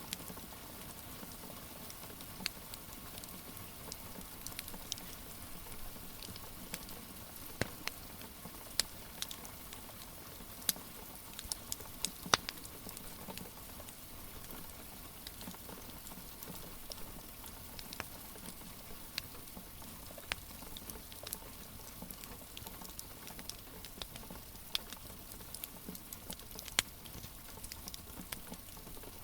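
Steady hiss of rain with the irregular crackles and sharp pops of a wood fire burning in a fireplace.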